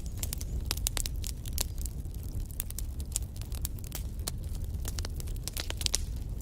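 Wood fire burning in a fireplace, logs crackling and popping in quick irregular snaps over a steady low rumble of the flames.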